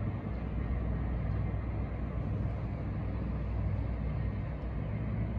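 Steady low engine rumble with an even hum and no changes in pace.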